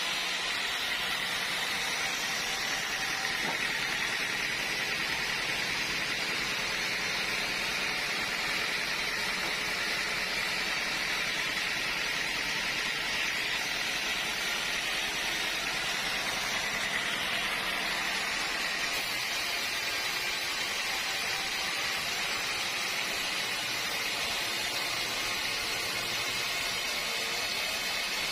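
Steady, even hiss of machinery running, holding the same level throughout with no rhythm or strokes.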